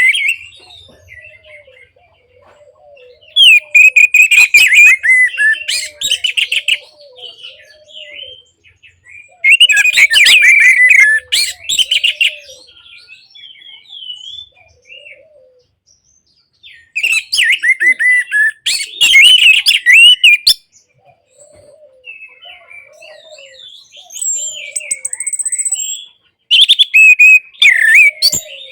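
Orange-headed thrush singing: loud, fast, varied phrases of two to three seconds each, four times, with quieter scattered calls between them. Soft low repeated notes run underneath.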